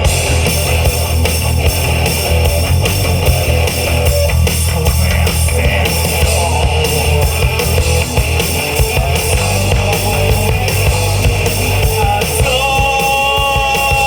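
Rock band playing: electric guitars, bass guitar and drum kit in a loud, dense mix. A clearer held melodic line comes in about twelve seconds in.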